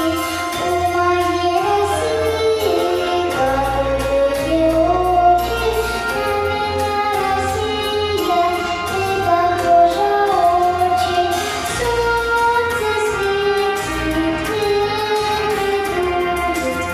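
A young female voice singing a melody over instrumental accompaniment with a bass line and a steady beat.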